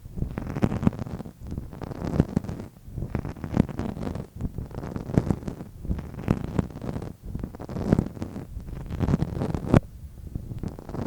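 Close-miked ASMR tapping and rubbing: rapid clusters of soft taps with a muffled low thud, coming in groups about a second apart.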